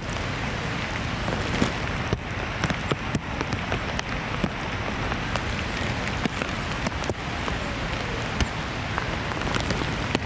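Heavy rain falling: an even hiss with frequent sharp ticks of single drops.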